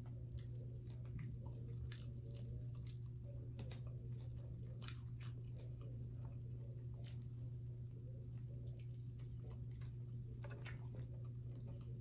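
Close-miked chewing and biting of fried chicken, with many scattered short mouth clicks, over a steady low electrical hum.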